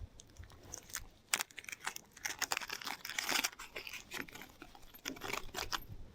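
Irregular close crackling and clicking handling noise, busiest in the middle, with no wind rumble.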